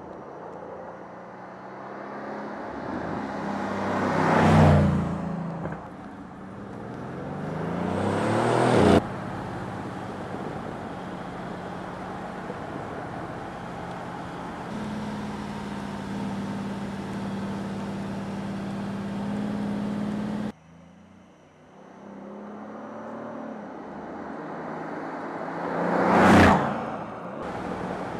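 Mercedes-AMG C63 S sedan's twin-turbo V8 passing by twice, each time swelling as it approaches and falling away after. In between, it revs up under acceleration, cuts off suddenly, and then runs at a steady pitch for about eleven seconds.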